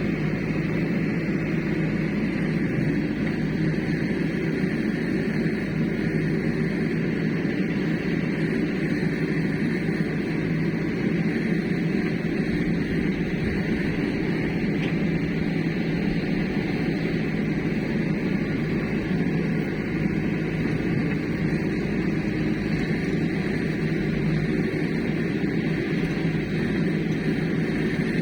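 Heavy diesel engine of farm machinery running steadily, with no revving or change in pitch.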